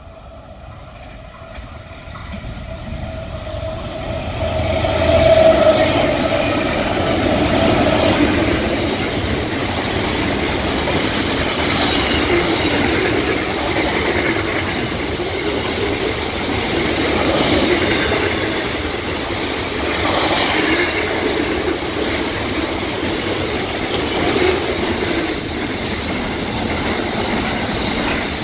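SCT freight train approaching and passing at speed. It grows louder over the first five seconds or so as the diesel locomotives come by, then the long string of container wagons rolls past steadily.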